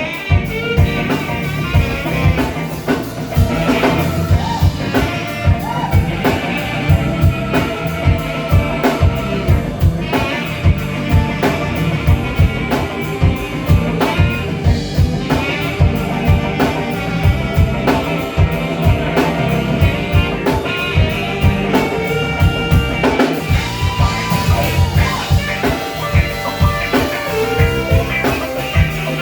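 Live band playing an instrumental blues-rock number on drum kit and guitar, with a steady beat.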